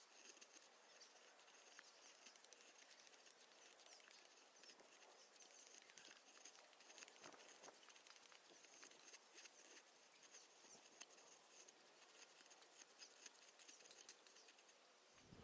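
Near silence: faint outdoor ambience with a few light ticks.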